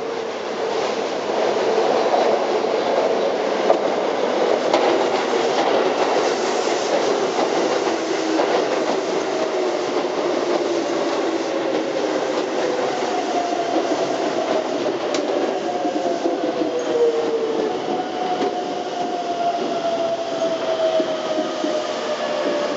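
Keisei 3700 series electric train pulling into a station, wheels clattering over the rails with scattered clicks, and a whine from the drive that slowly falls in pitch as it slows.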